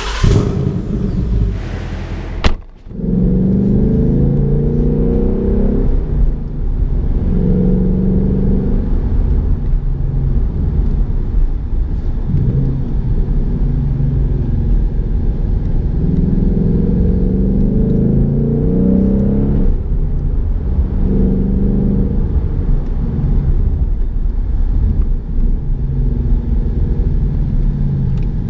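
2018 Ford Mustang GT's 5.0-litre V8, heard first briefly at close range by the quad exhaust tips. About two and a half seconds in, it is heard from inside the cabin while driving: a steady low rumble with the engine note rising and falling every few seconds.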